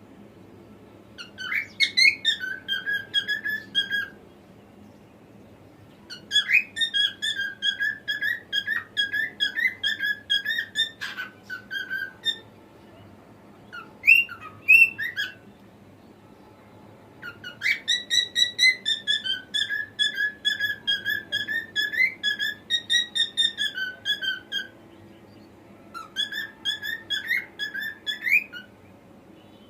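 Cockatiel singing: five phrases of quick, warbling whistled notes with short pauses between them.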